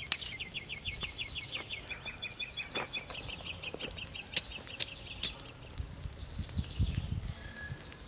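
A songbird sings a fast trill of repeated chirps, about seven a second, which stops a little over three seconds in. Fainter bird calls follow, with scattered small clicks and a few low thuds near the end.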